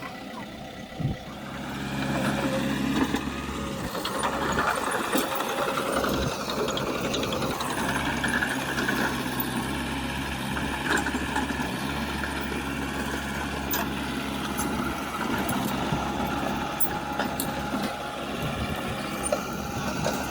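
Heavy diesel earthmoving machinery running with a steady engine drone. A higher-pitched component joins about eight seconds in and drops away again a few seconds later.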